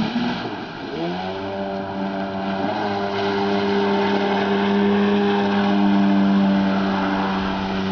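Jet ski engine revving: the pitch dips, climbs back up about a second in, then holds steady at high revs.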